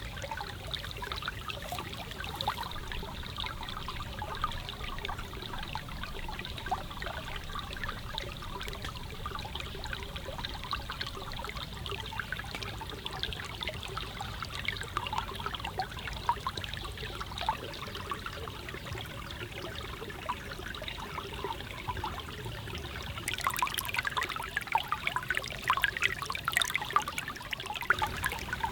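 Forest stream trickling and flowing steadily, with small crackles throughout. A run of louder sharp crackles and clicks comes near the end.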